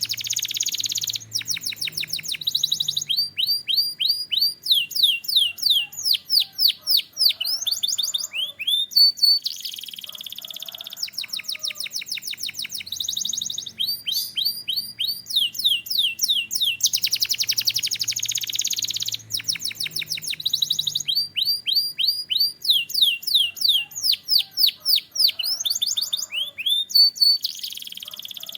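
Canary singing a long song of buzzing rapid trills alternating with runs of quick downward-sliding whistled notes, the same phrases coming round again about every nine seconds.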